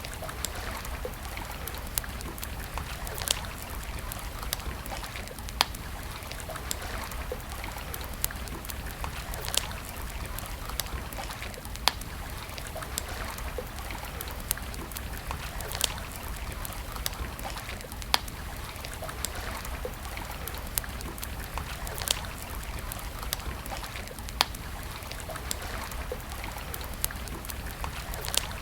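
Wood campfire crackling, with sharp pops every second or two, over the steady rushing trickle of a nearby stream.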